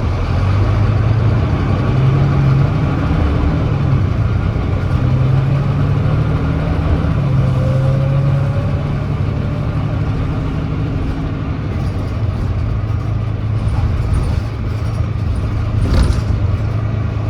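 Volvo D9B 9.3-litre diesel of a double-deck bus pulling away at full throttle on kickdown. Its note climbs and drops back as the ZF Ecolife automatic gearbox shifts up from first towards third, heard from on board. A sharp knock comes near the end.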